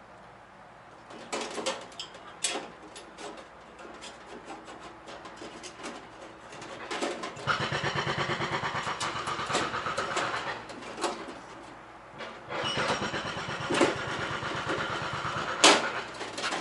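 A handheld power tool runs in two spells, the first about four seconds long and the second about three, while bolting or drilling a heater mounting plate. Sharp metal clinks and knocks come before and between the spells.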